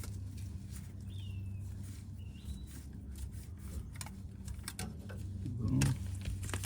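A bird chirps twice, short calls that rise and then fall, over a steady low hum. A few clicks and knocks come near the end.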